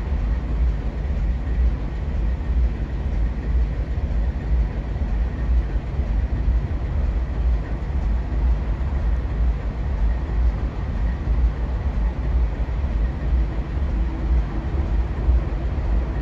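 Amtrak Downeaster passenger train approaching from far off, its diesel locomotive giving a steady, uneven low rumble. A faint hum comes in near the end as it draws closer.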